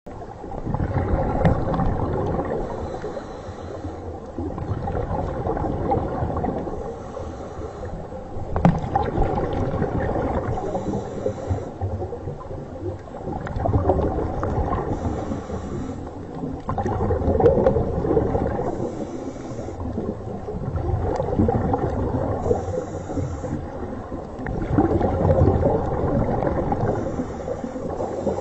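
Underwater ocean sound: a low gurgling rumble that swells and fades about every four seconds.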